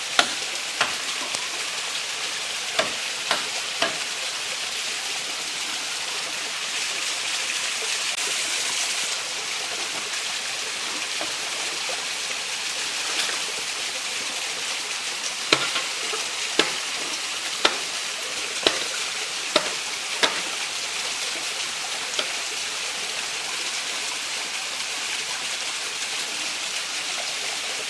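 A steady hiss with sharp knocks over it: a few in the first four seconds, then about one a second between roughly 15 and 20 seconds in.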